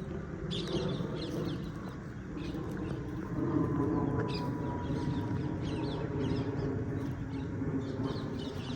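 Wild birds calling over and over in short, high, downward-sliding chirps, over a steady low background noise.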